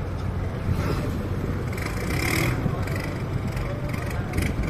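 Turbocharged diesel engine of a river boat running steadily with an even, deep drone. The engine is a truck- or pickup-type diesel fitted with a very large turbo.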